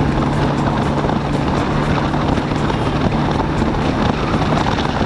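Bajaj Dominar 400's single-cylinder engine running steadily at a cruise of about 60 km/h, with wind and road noise over the microphone.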